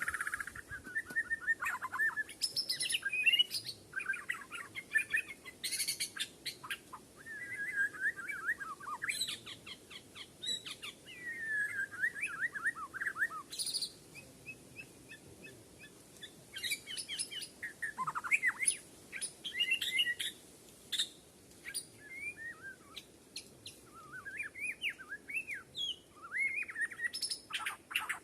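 White-crowned shama singing a long run of varied, rapidly changing whistled phrases, each lasting a second or two with short gaps between, mixed with sharp clicking notes.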